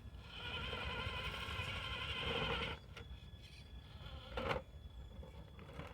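RC crawler truck's electric motor and drivetrain whining under load as it struggles up a steep hill without enough front weight to climb. The whine cuts off about three seconds in, followed by a click and a short knock a little later.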